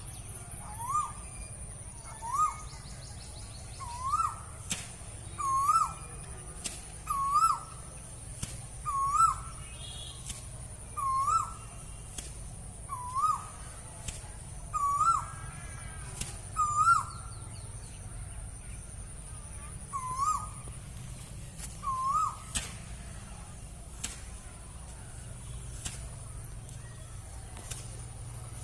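A bird repeating one short call, rising then falling in pitch, about every one and a half seconds, some fourteen times, stopping a little over twenty seconds in. Behind it runs a steady thin high-pitched tone that drops out at about the same time and comes back near the end.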